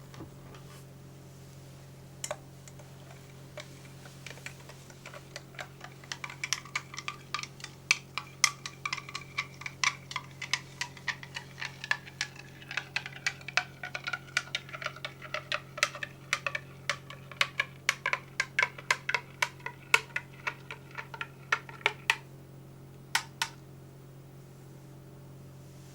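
Rapid, irregular light clicks on a hard object, several a second, with a faint ringing tone. They start about five seconds in, stop a few seconds before the end, and a couple of stray clicks follow.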